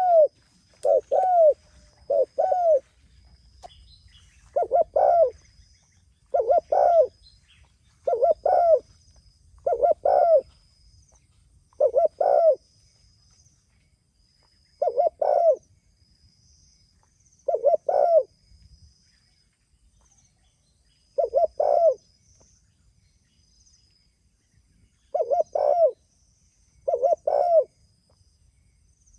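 Spotted dove (tekukur) cooing over and over: short phrases of two or three low coos, about one phrase every two seconds, with longer pauses in the second half.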